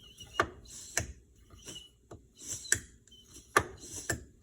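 Freshly resealed power steering cylinder being stroked by hand: air hisses and whistles out through its ports with each stroke, with a sharp clack at each end of travel. The whistling through both ports shows the new seals are holding.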